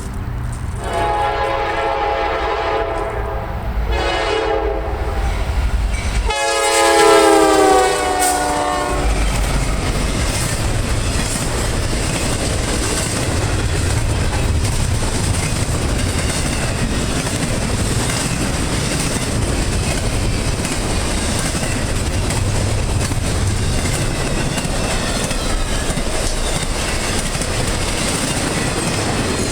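Norfolk Southern GE C44-9W diesel locomotive sounding its multi-chime air horn in three blasts, the last and loudest falling in pitch as it passes. The double-stack freight train then rolls steadily by, its wheels clattering over the rail joints.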